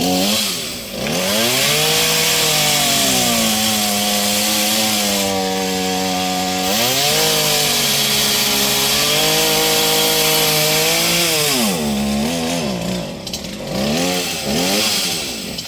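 Gas two-stroke chainsaw revved up and held at high speed, with a brief dip about halfway. Near the end it drops back, gives two short revs, and then dies away.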